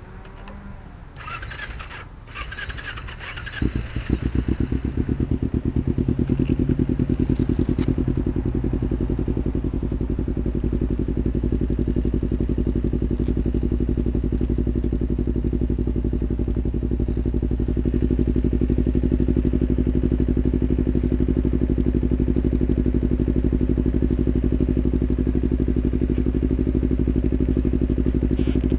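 Kawasaki Ninja 250R parallel-twin engine starting about four seconds in, after a few brief clatters, then idling steadily.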